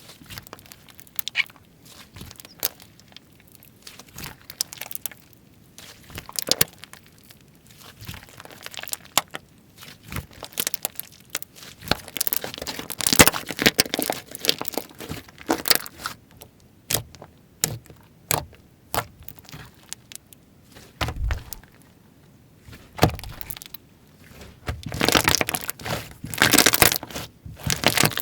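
Slime being squeezed, stretched and pressed by hand, giving a run of sticky crackling clicks and pops. The pops come thickest about halfway through and again near the end, with one dull thud about two-thirds of the way in.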